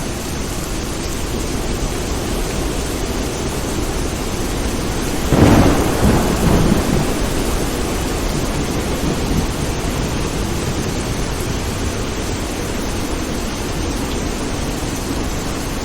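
Steady rain with a sudden clap of thunder about five seconds in, rumbling away over the next couple of seconds.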